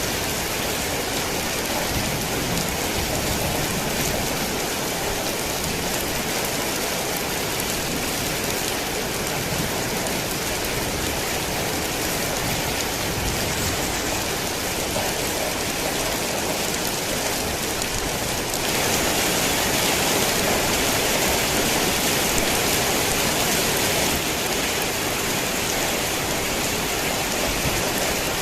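Heavy rain falling in a steady, dense hiss. About two-thirds of the way through it grows louder and brighter for about five seconds, then settles back.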